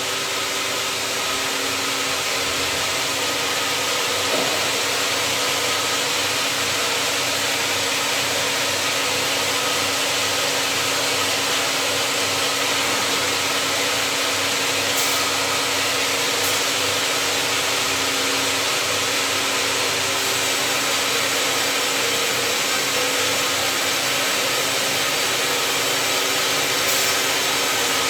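An engine-driven machine running steadily with a constant hum and a dense rushing noise. There are a few faint, brief high ticks.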